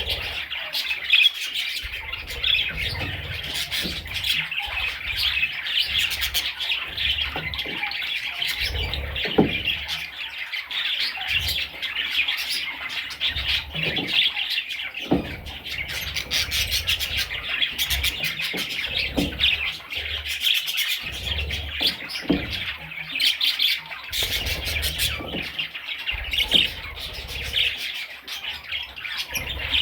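Budgerigars chirping and squawking in continuous, busy chatter, with scattered short knocks.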